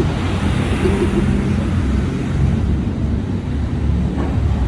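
Steady low rumble of a passenger train in motion.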